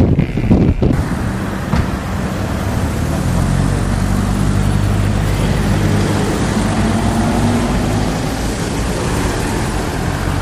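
Rushing wind and road noise from a moving car, cut off about a second in. Then a motor vehicle engine idling with a steady low hum, over roadside traffic noise.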